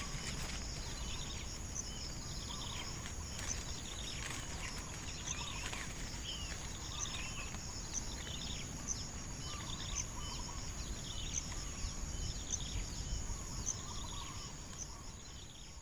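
Outdoor ambience of a steady low rumble with a continuous high insect drone and short regular pips, while small birds give repeated short falling chirps.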